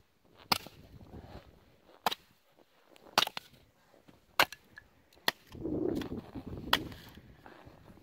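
Firewood being chopped: six sharp, hard strikes at irregular gaps of about a second, with a louder rustle of handling wood and brush about two-thirds of the way through.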